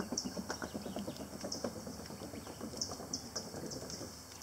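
Small birds chirping, short high notes repeated in irregular clusters, several a second at times, over soft outdoor background noise.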